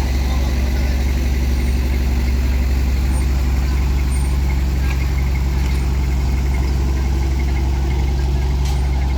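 Heavy truck engine idling steadily, a constant low hum with no revving.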